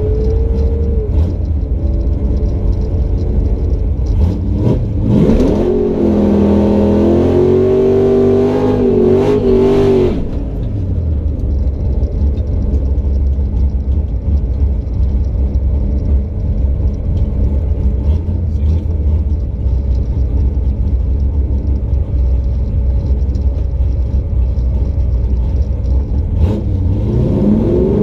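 Drag car engine running loud and low, revving up about four seconds in and held high for several seconds before dropping back to a lumpy low-speed rumble, then revving again near the end.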